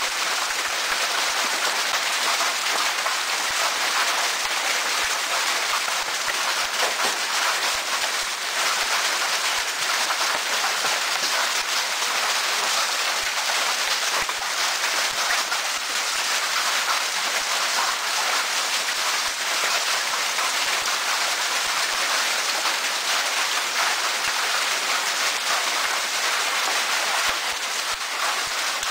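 Heavy hailstorm: a dense, steady clatter of hailstones pelting down, with many small separate clicks of single stones striking.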